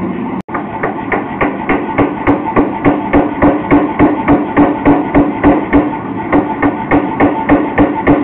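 Blacksmith's hammer striking steel on an anvil in a steady rhythm, about three blows a second, with a ringing tone. The blows start after a brief break about half a second in.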